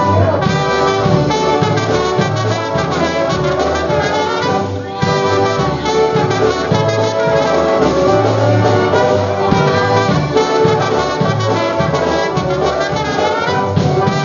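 Live polka band playing an instrumental passage with brass leading over a regular bass beat. The music drops out briefly about five seconds in and starts up again.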